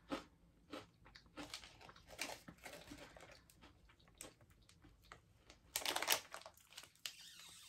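Faint crunching of hard, spicy mentaiko-flavoured coated beans being chewed, a string of short crunches. A louder, brief rustle comes about six seconds in.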